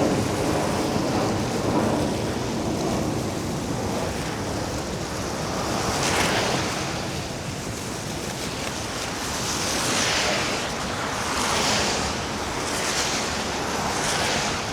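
Wind rushing over the microphone, with road noise, while riding an electric scooter through snow. In the second half come about five hissing swells, each lasting about a second.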